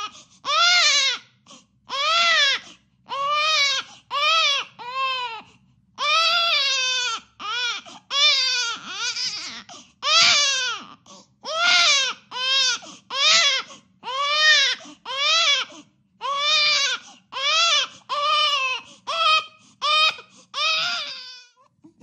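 Infant crying: a long run of about twenty wails, each rising and falling in pitch, with short gaps for breath between them.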